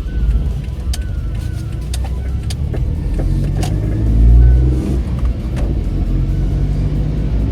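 Suzuki Wagon R's small three-cylinder engine and road noise while driving: a steady low rumble with an engine hum, swelling briefly about four seconds in.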